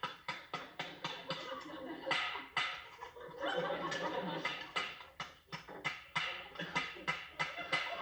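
Nuts being cracked with a nutcracker: a long run of sharp, irregular cracks, about three or four a second.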